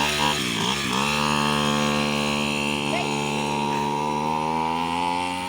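Small JD 37 two-stroke engine fitted with a chainsaw carburettor, revved up and down twice, then held at high revs with the pitch creeping slowly higher.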